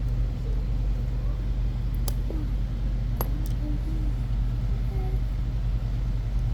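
A steady low hum, with a few faint sharp clicks about two and three seconds in.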